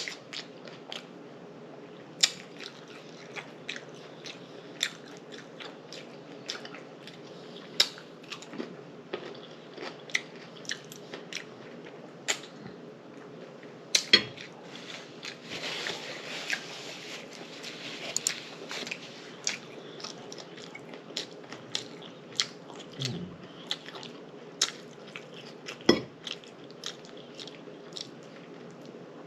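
Close-miked chewing and crunching of chicken taco salad, with frequent irregular sharp crunches and wet mouth sounds.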